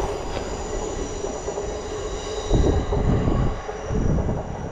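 A train on the nearby tracks, with steady high-pitched tones over its running noise; a heavier low rumble comes in about halfway.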